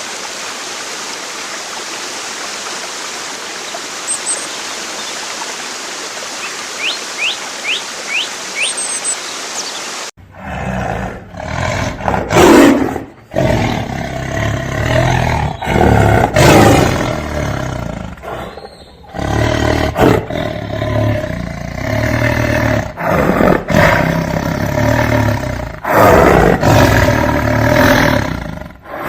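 Steady sound of running water with a few faint bird chirps, then, after an abrupt cut about ten seconds in, a big cat, such as a lion or tiger, roaring and growling in a string of loud roars with short breaks between them.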